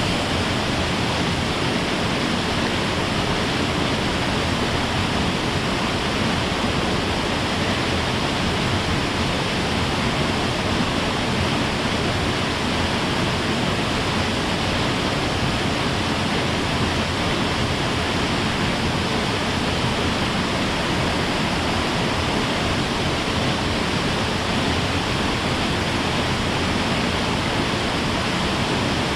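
Mountain stream water rushing and cascading over rocks, a steady, unbroken rush.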